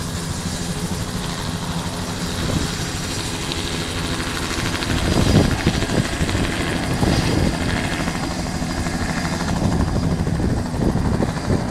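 Helicopter engine and rotor noise, a steady low hum that grows louder and rougher from about five seconds in.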